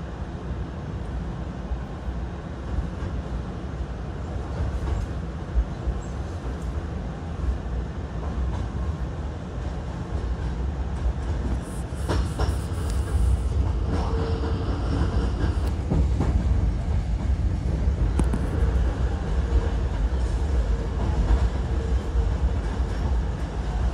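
Hankyu electric commuter train heard from inside the car as it gathers speed after departure: a steady low rumble of wheels on rail with some clatter, growing a little louder about halfway through. A thin steady tone joins in from about the middle for several seconds.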